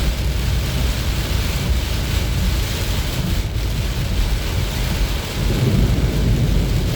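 Heavy rain beating on a moving car, a steady dense hiss over a deep low rumble that swells louder about five and a half seconds in.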